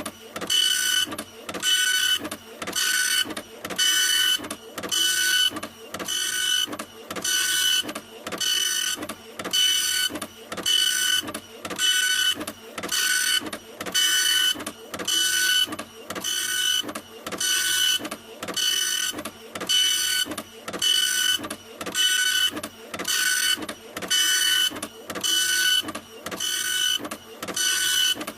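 Printer running in a steady rhythm, a mechanical pass repeating about twice a second, each pass carrying a high whine.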